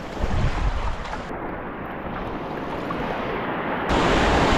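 Creek water rushing around a whitewater kayak, with wind buffeting the microphone in low gusts; the water noise swells louder about four seconds in.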